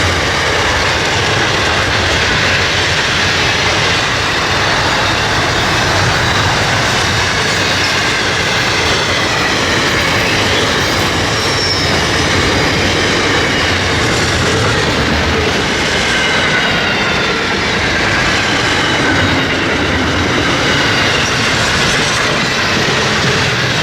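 Freight train wagons rolling past, a steady loud noise of steel wheels on rail with faint wavering squeals from the wheels.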